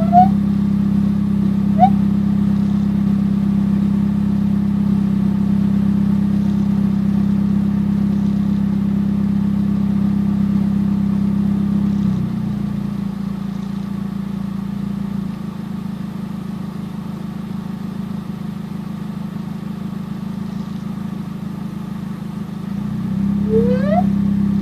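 Car air conditioning cycling at idle: a steady, loud hum cuts back about halfway through as the compressor disengages, then rises again near the end as it kicks back in, with a short rising chirp as it engages. This chirp and hum on A/C engagement is the weird sound the owner is trying to identify.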